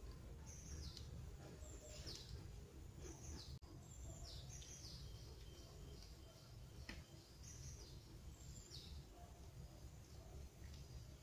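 A small bird chirping faintly and repeatedly: short high chirps that fall in pitch, about one every second, over a steady low background rumble.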